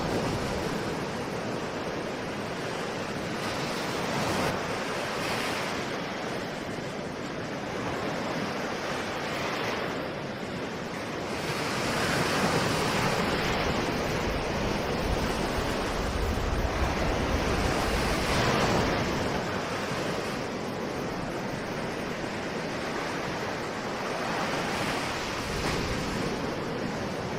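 Ocean waves breaking and washing ashore, a continuous rush of surf that swells and eases every few seconds.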